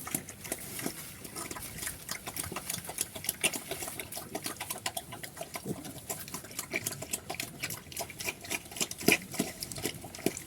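Black pigs eating: a dense, irregular run of wet smacking and crunching clicks from chewing, with a couple of short low grunts near the end.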